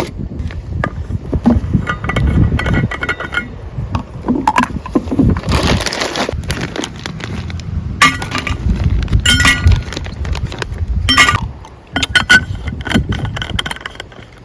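Repeated clinks and knocks of cookware and utensils being handled, some with a short ringing tone.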